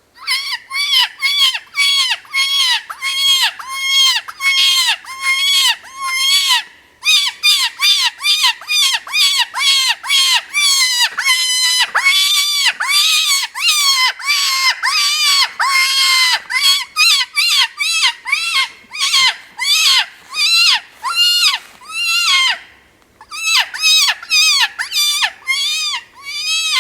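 MFK Bunny Bird predator call blown as high-pitched rabbit distress: a long series of raspy, wailing cries, about two a second, in three runs broken by two short pauses.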